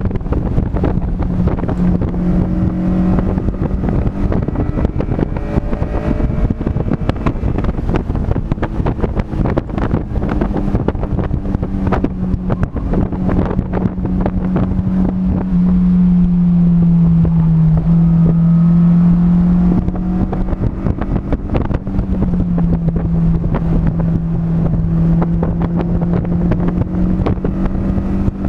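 Onboard sound of a vehicle engine running hard on a race track, its note mostly steady but falling and then jumping back up in pitch a couple of times past the middle. Heavy wind buffeting on the microphone runs throughout.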